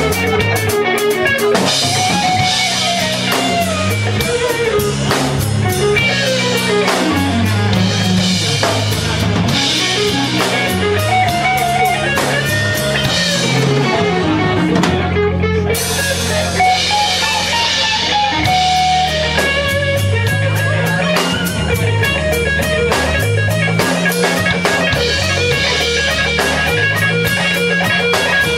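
Live blues-rock band playing an instrumental break: a lead guitar line with bending, gliding notes over bass and a drum kit.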